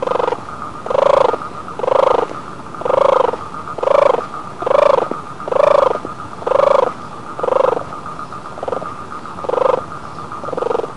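An animal calling over and over, about a dozen short pitched calls roughly once a second, over a steady high drone.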